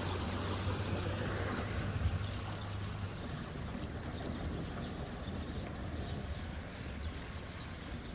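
Steady rushing outdoor noise with a low rumble that eases off about three seconds in.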